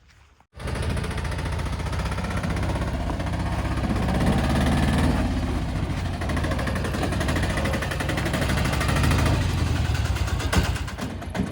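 Heavy diesel machine's engine running loud and steady, cutting in abruptly about half a second in.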